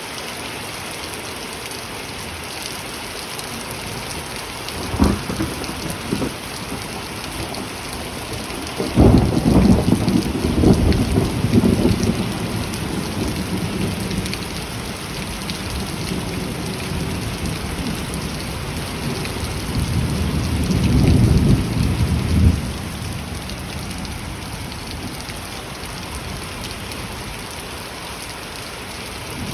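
Steady heavy rain falling, with a sharp thunderclap about five seconds in and long, loud low rumbles of thunder starting around nine seconds and again around twenty seconds.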